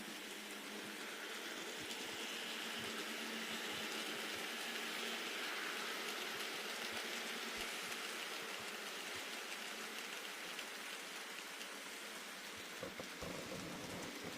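Model train running on the layout's track: a steady whirring hiss that swells and then fades as the train passes, with a few light clicks near the end.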